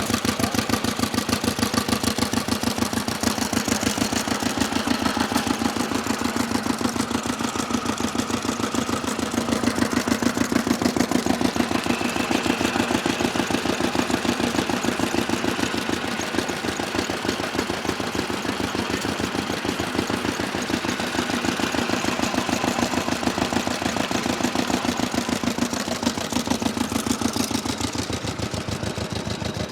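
6 horsepower twin-cylinder vintage stationary engine running steadily with a fast, even firing beat; it is running smoothly.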